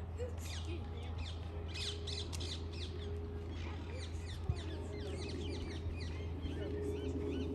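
Many small birds chirping in quick, falling calls over a steady low rumble, with one sharp click a little past halfway.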